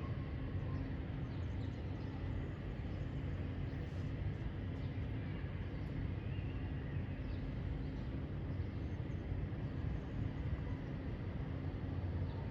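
Faint, brief bird chirps, mostly around the middle, over a steady low rumble that is the loudest thing throughout.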